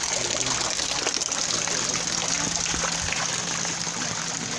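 Steady rush and trickle of storm runoff flowing through a flooded street whose drains are blocked by rubbish, with a faint steady low hum underneath.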